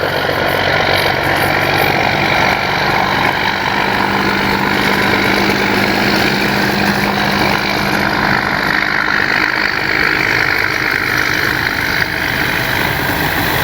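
Electric motor and propeller of an E-flite Piper Cherokee 1.3 m RC plane running steadily on the ground.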